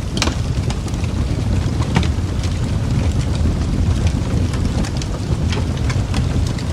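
Wood fire crackling: sharp pops scattered over a steady low rumble, with the strongest pop just after the start and another about two seconds in.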